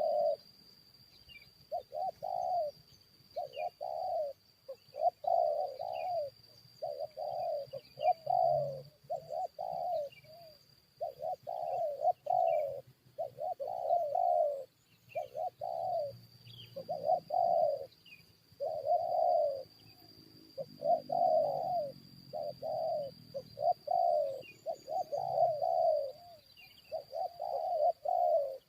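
Spotted doves cooing over and over, short coos following one another about once a second, the calls of a decoy dove used to lure a wild dove into a fight. Faint chirps of small birds and a steady high whine sound behind them.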